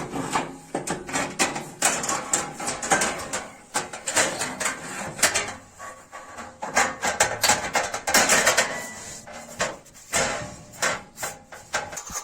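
Irregular metal clatter, knocks and scraping as parts are handled and fitted inside a stove's firebox while a heat exchanger is installed.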